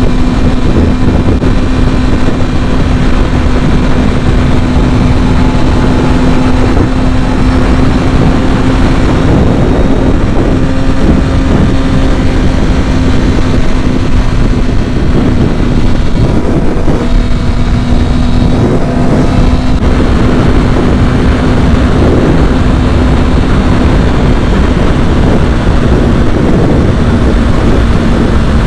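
Kawasaki ZX-6R's inline-four engine running at a steady cruise while riding, with heavy wind noise on the microphone. The rider feels that the engine sounds a little weird and that its carburettors need cleaning.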